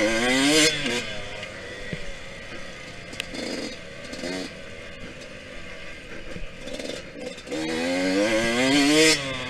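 Yamaha YZ125X 125cc two-stroke single-cylinder engine being ridden hard. Its pitch rises at the start and cuts off as the throttle is shut, blips briefly twice in the middle, then climbs in one long rising rev from about three-quarters of the way in before cutting off again near the end.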